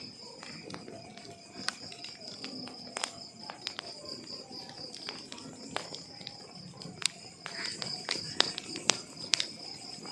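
Log fire crackling: irregular sharp pops and snaps from burning wood over a low rustle, with a steady high-pitched trill running underneath.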